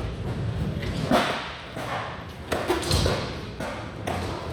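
Skateboard wheels rolling on park ramps and concrete, with several sharp thuds and clacks of the board hitting down.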